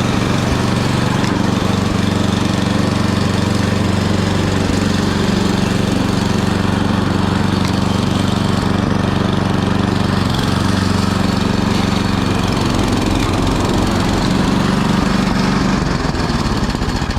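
Gas snow blower engine running steadily, then slowing into spaced-out pulses near the end as it begins to stop.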